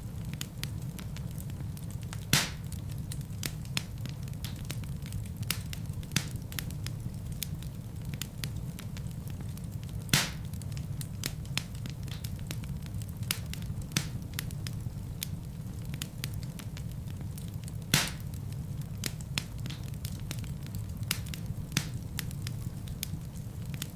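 Wood fire burning in a fireplace: a steady low rumble of flames with frequent small crackles and a few louder sharp pops from the burning logs, about 2, 10 and 18 seconds in.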